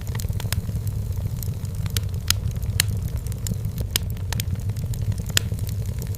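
Firewood burning in a fireplace: frequent sharp crackles and pops, a handful of louder snaps among them, over a steady low rumble.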